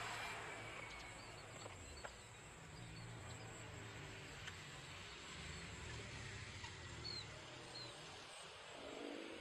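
Faint outdoor ambience: a few short, scattered bird chirps over a steady background hiss and low rumble, with a thin high steady tone like an insect's drone.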